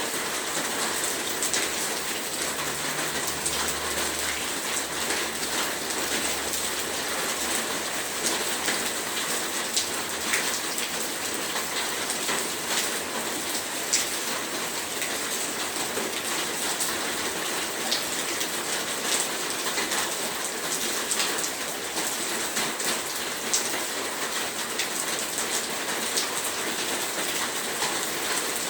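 Heavy rain falling steadily: a dense hiss with many sharp drop impacts standing out.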